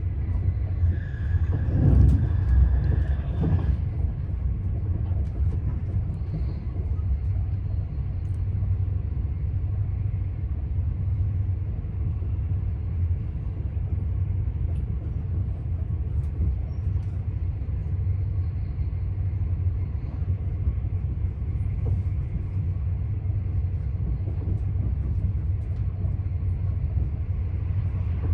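Passenger train running, heard from inside the carriage: a steady low rumble of wheels on track. About a second in it swells for a few seconds, with a thin steady high tone, then settles back to the even rumble.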